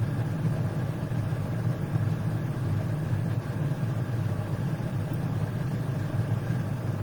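A steady low hum, even and unbroken, like a running motor in the background.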